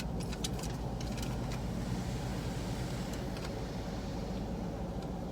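Automatic car wash machinery running around the car, heard from inside the closed cabin: a steady rumble and hiss with a few faint ticks scattered through it.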